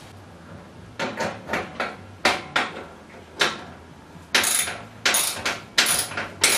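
Stainless-steel chimney pipe fittings clanking and knocking in a string of sharp metallic hits as a start adapter, the single-wall-to-sandwich transition piece, is worked onto the flue pipe. The hits get brighter and louder in the second half.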